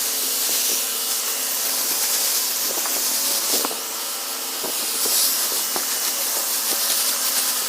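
Garden sprayer spraying water onto plants: a steady hiss of spray, with a few light ticks.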